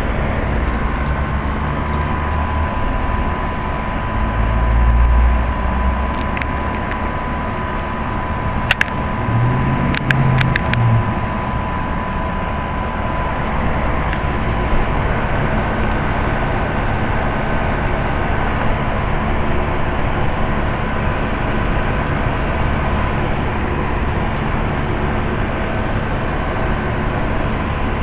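Outdoor unit of an older York heat pump running, a steady mechanical hum with a thin steady tone over it. A few sharp clicks come about nine to eleven seconds in.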